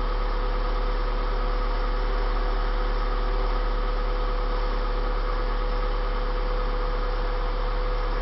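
Hyundai Tiburon's four-cylinder engine idling steadily on its first start-up with a newly fitted 4-into-1 exhaust header.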